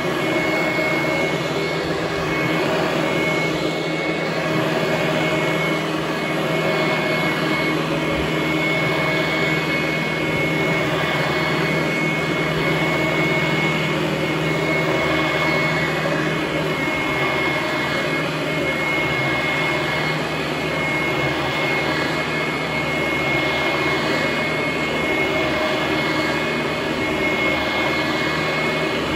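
Vintage Hoover Conquest commercial direct-air upright vacuum cleaner running on carpet: a loud, steady motor-and-fan noise with a high whine through it, really noisy and sounding like a helicopter. Its level rises and dips slightly as it works.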